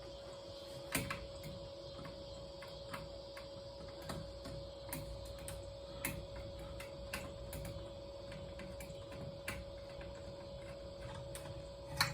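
Light clicks and taps, scattered irregularly about once a second, from hand work on ceiling fan parts and tools, over a faint steady hum.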